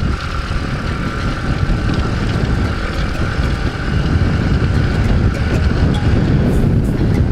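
Nitro Sky 125cc pit bike's single-cylinder four-stroke engine running under way, heard with heavy wind rumble on the camera microphone. It gets louder about four seconds in.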